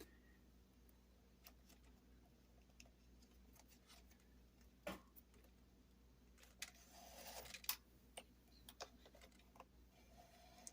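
Near silence with faint scattered clicks and a soft rustle a little past the middle, from hand-stitching thread through a leather handle wrap.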